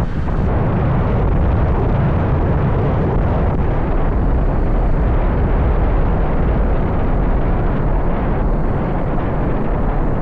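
Wind buffeting the microphone of a moving motorbike, a steady rumbling rush that buries the bike's engine beneath it.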